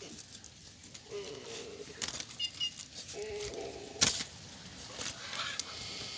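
A trapped bird flapping its wings and giving short chirps and calls while it is handled, with one sharp knock a little after four seconds.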